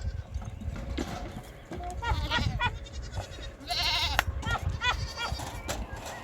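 Goats bleating several times in short, quavering calls, the loudest about four seconds in.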